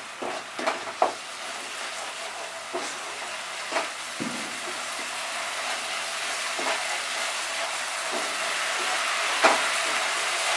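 Spice masala of tomato, ginger paste and ground spices sizzling in mustard oil in a nonstick frying pan as a spatula stirs it, with a scattering of short scrapes and taps against the pan. The sizzle grows steadily louder as the masala fries down on raised heat, until the oil separates from it.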